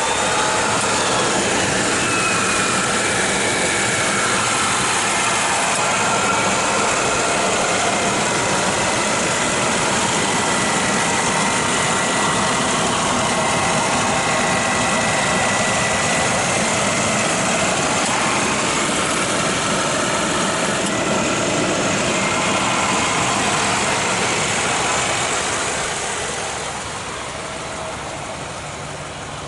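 1984 Cadillac Coupe DeVille's V8 engine idling steadily, fading somewhat over the last few seconds.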